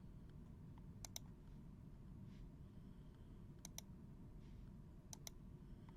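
Near silence with three pairs of faint, sharp clicks: trading cards being handled and snapped against one another while a pack is sorted.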